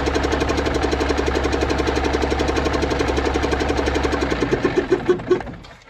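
Cummins NTC-300 Big Cam 3 855 ci inline-six turbo diesel running on an engine stand with a steady, even firing beat, then shut off: the firing slows and dies out about five seconds in.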